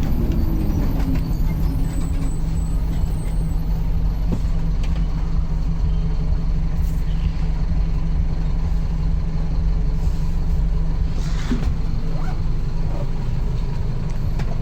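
Mercedes-Benz LO 916 bus's OM924LA four-cylinder diesel engine idling steadily, heard through its exhaust. A brief hiss comes near the end.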